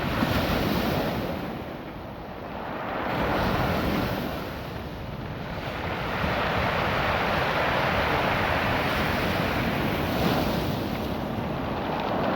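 Surf washing in and back over a beach of small rounded stones. It is a rushing sound that swells and falls every few seconds, with a dip about two seconds in and another about five seconds in.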